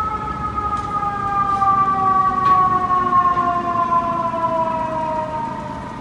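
A vehicle horn held for several seconds on a two-note chord, its pitch falling slowly as it passes, with city traffic underneath. The lower note drops out about five seconds in.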